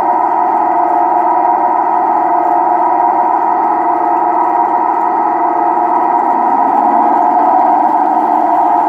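DCC sound decoder playing a Napier Deltic diesel engine recording through the model locomotive's onboard speakers, held at high power after the throttle has been opened: a loud, steady drone.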